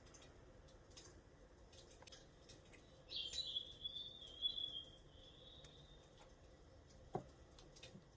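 A small bird's trill, lasting about two and a half seconds and falling slightly in pitch, comes a few seconds in. It sits over faint, scattered clicks, and a short low swoop follows near the end.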